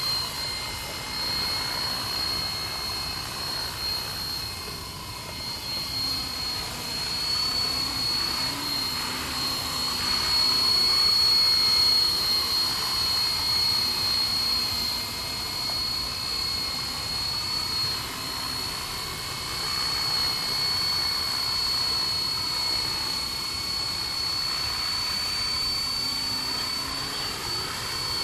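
Radio-controlled helicopter in flight: a steady high whine from motor and rotor, its pitch swooping up and down as the helicopter manoeuvres, with wind rumbling on the microphone.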